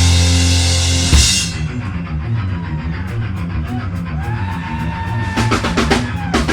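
Live heavy metal band: a loud full-band chord with cymbal crash stops about a second in, then distorted guitar and bass play a sparser low rhythmic riff under a high sliding guitar tone, and the drums come back in with a fill near the end.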